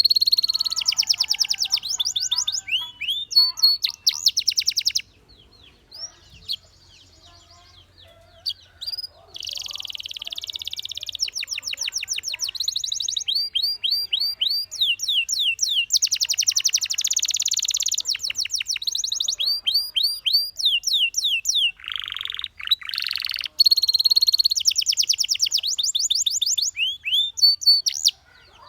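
Domestic canary singing: high-pitched phrases of rapid trills and runs of quickly repeated whistled notes, broken by a pause of a few seconds about five seconds in.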